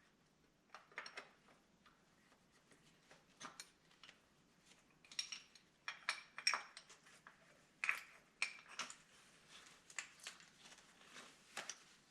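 Scattered light metallic clinks and clanks of lifting hardware, chain and hooks, being handled while rigging an engine for a hoist lift. The clinks come at an irregular pace and are loudest and most frequent in the middle of the stretch.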